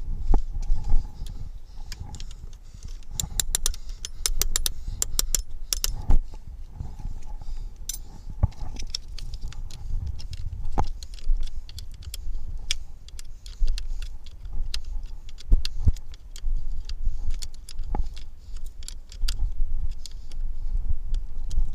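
Small metal parts and hand tools clinking and rattling in irregular clicks, thickest a few seconds in, over a low rumble.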